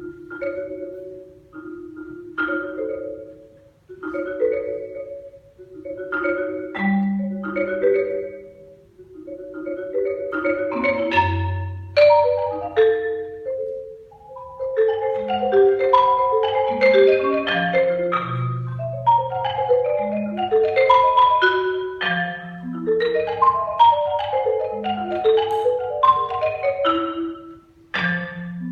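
Solo marimba playing: mallet-struck notes ringing and dying away, with deep bass notes under the melody. Slow, sparse phrases with pauses give way, about a third of the way in, to fast, dense runs across the range.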